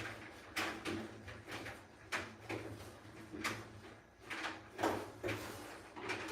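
A series of short scraping or sliding sounds, irregular at about two a second, over a steady low hum.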